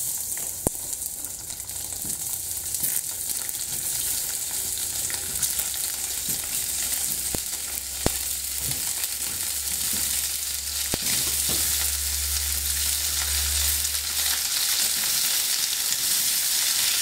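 Cocktail sausage pieces sizzling in hot oil in a nonstick frying pan: a steady frying hiss that grows a little louder as more pieces go in, with a few sharp ticks along the way.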